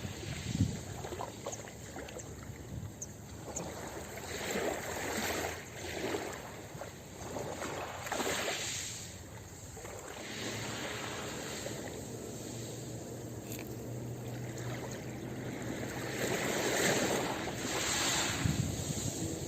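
Ocean waves washing onto a beach, the surf swelling and falling back in several surges.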